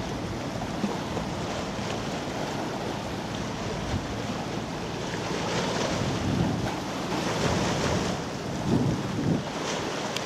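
Wind buffeting the microphone in irregular gusts, over a steady rush of water.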